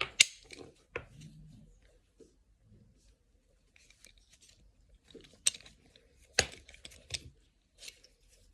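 A handmade dog collar being handled: a few sharp clicks with light rustling between them, the loudest near the start and about five and six and a half seconds in.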